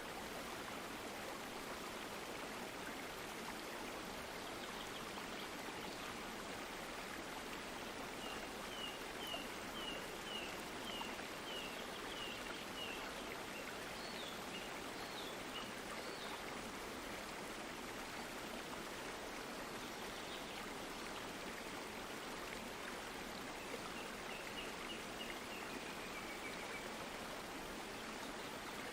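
Steady rushing of a stream. Over it come runs of short, high, quickly repeated chirps: one about a third of the way in, with a few higher notes just after, and another near the end.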